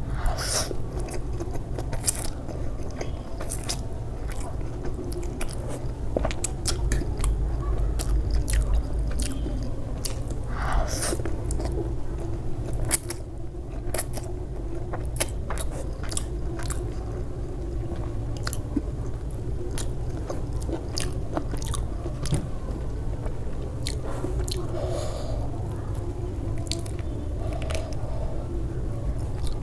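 Close-up sounds of a person chewing and biting food, with many short crunchy clicks and wet mouth sounds coming irregularly.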